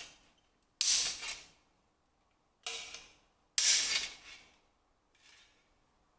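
Sheet-steel repair panel being worked with hand tools: four sharp strikes or strokes, each dying away over about half a second, spaced irregularly, with a fainter one near the end.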